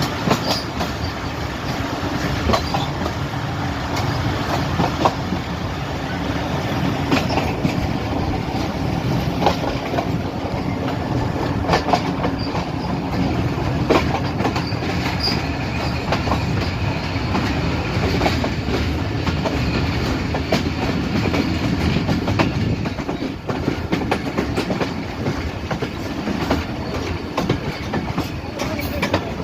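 Passenger train running on the track, heard from aboard: a steady rumble of wheels on rail with irregular clacks as the wheels cross rail joints.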